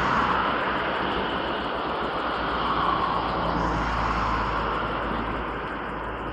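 Steady rushing noise of distant vehicle traffic, easing off a little near the end; no thunder is heard.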